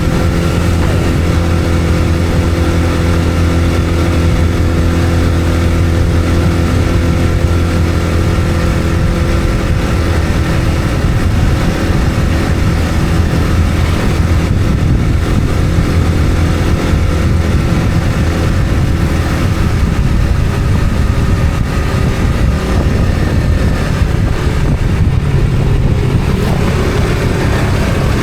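Motor vehicle engine running steadily while driving, with road noise; the engine's low hum shifts about ten seconds in.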